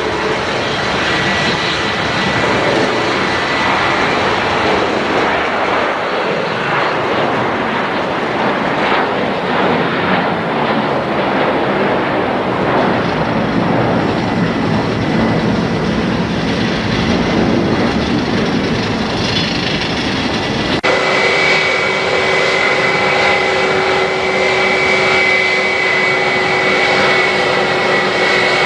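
Jet airliner engines: a broad roar that swells about halfway through as an aircraft passes. After an abrupt cut about 21 s in, engines run with a steady high turbine whine and several held tones over the rumble.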